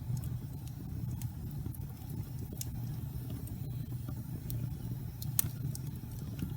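Wood fire burning in a fireplace: a steady low rumble of flames with scattered sharp crackles and pops from the burning wood, the loudest pop about five and a half seconds in.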